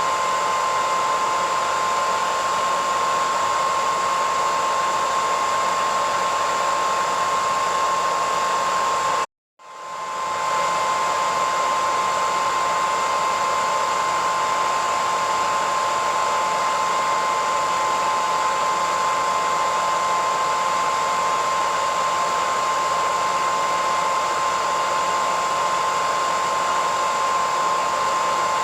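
Hair dryer running: a steady rushing hiss with a high whine. About nine seconds in it cuts out for half a second, then swells back up.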